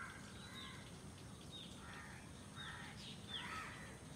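Faint birds calling: a string of short, high, falling chirps repeated every second or so, with two lower, harsher calls about two and three seconds in.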